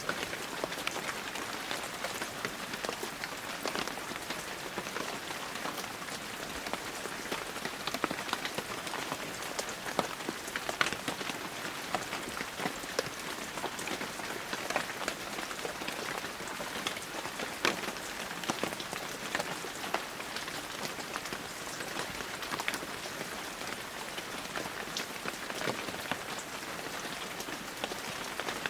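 Heavy rain falling steadily, a dense hiss with many sharp individual drop hits scattered through it.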